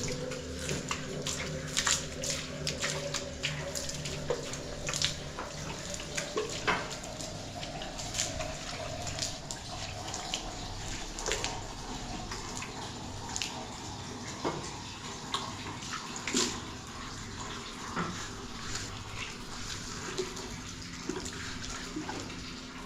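Water running steadily, like a tap filling a tub or sink, with scattered clicks and knocks throughout.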